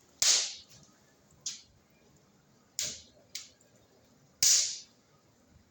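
Firewood burning in a freshly lit, newly built barbecue fireplace, giving five sharp pops that each fade within half a second; the loudest come at the very start and about four and a half seconds in.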